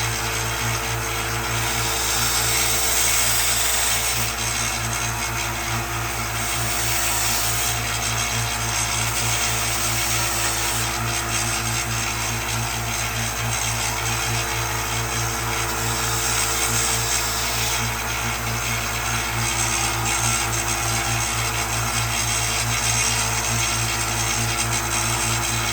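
Electric power tool motor running steadily, with three stretches of louder grinding hiss as work is pressed against it.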